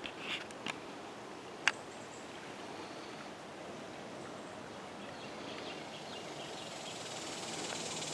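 Quiet outdoor ambience with a few sharp clicks in the first two seconds. A high hiss builds steadily over the last few seconds.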